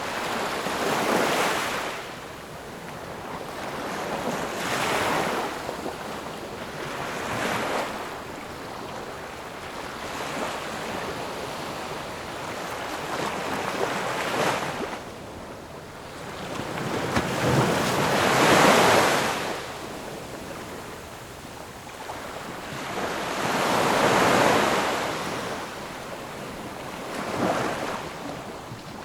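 Ocean waves breaking and washing up the shore in repeated swells every few seconds, each rising and falling away, the loudest a little past the middle.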